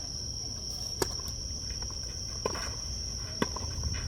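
Tennis ball impacts during a rally: three sharp pops of ball on racket or court, about a second apart, over a steady high-pitched drone of insects.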